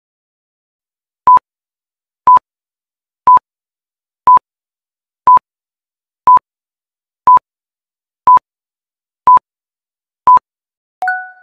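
Quiz countdown timer sound effect: ten short, identical electronic beeps at one steady pitch, one per second, ticking off the seconds. Near the end a ringing two-tone chime sounds and fades, marking time up.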